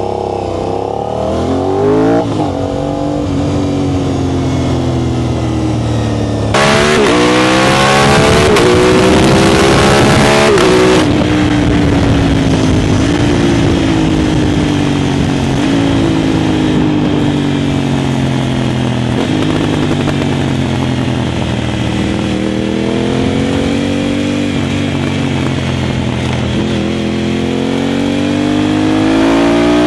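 Aprilia RS 660's parallel-twin engine through an Arrow full exhaust with the dB killer fitted, its pitch climbing and falling back repeatedly as it is revved up and eased off, like pulling through the gears. About a quarter of the way in it gets louder and hissier for a few seconds, then settles into a slower rising and falling note.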